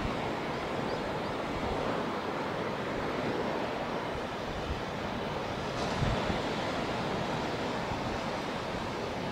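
Surf breaking on a beach, a steady wash of waves, with wind rumbling on the microphone in gusts. The uploader wonders whether the sea is being stirred up by a passing typhoon.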